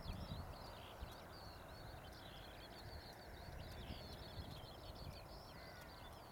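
Distant birds singing in a continuous high, twittering chatter over a low rumble, faint overall.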